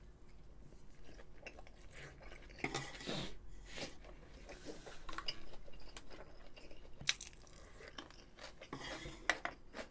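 A person chewing a mouthful of food with the mouth closed, close to the microphone: faint mouth clicks, with a few louder chews here and there.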